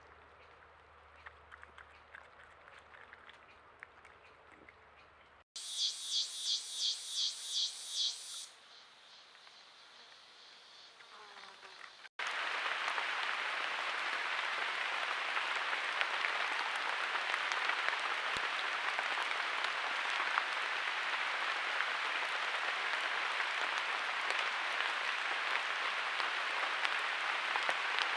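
Heavy rain falling, a loud steady hiss that begins abruptly about twelve seconds in. Earlier comes a brief high pulsing buzz, about three pulses a second, over faint forest ambience.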